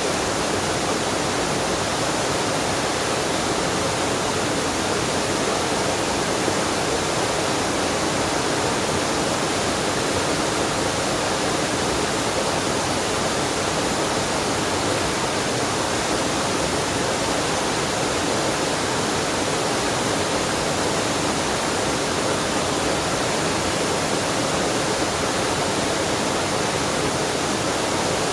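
Waterfall and mountain stream water rushing steadily, an unbroken even roar.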